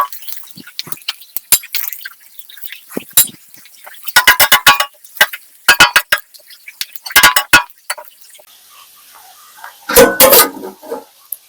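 Kitchenware being handled: several bursts of rapid, ringing clinks and clatters, with a heavier, louder clatter near the end.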